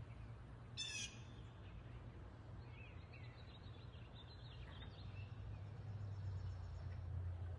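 Backyard wild birds calling: one short, sharp call about a second in, then a few fainter chirps. A low steady hum runs beneath and grows slightly louder in the second half.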